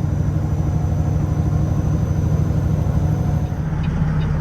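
Peterbilt semi-truck's diesel engine and drivetrain droning steadily while cruising under load, heard from inside the cab.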